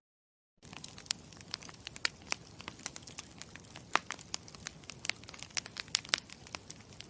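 Campfire crackling: irregular sharp pops and snaps, several a second, over a soft low rush. It starts about half a second in, after a moment of silence.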